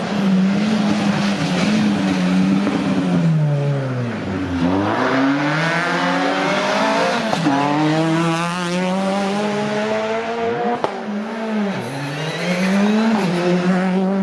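Rally car engine run hard on a special stage. Its pitch climbs and drops back again and again as it shifts and lifts, falls to its lowest about four and a half seconds in, then climbs again, with several quick drops near the end.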